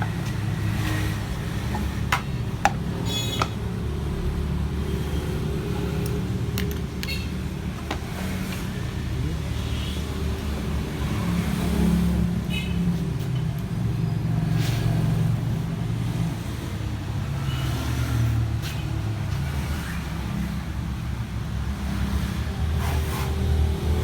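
Steady low rumble of a motor vehicle, with a few sharp clicks and taps over it, bunched in the first few seconds.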